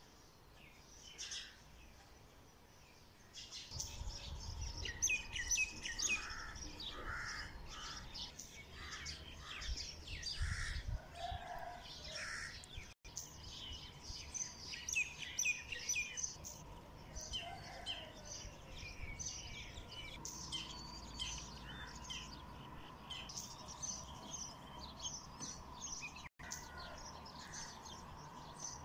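Many small birds chirping and twittering in quick, overlapping calls, sparse at first and dense from a few seconds in, over a low rumble.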